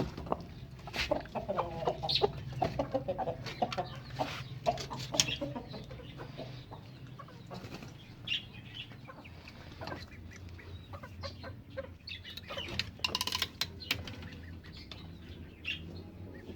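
Chickens clucking on and off, loudest in the first few seconds and again near the end, among scattered short clicks and knocks.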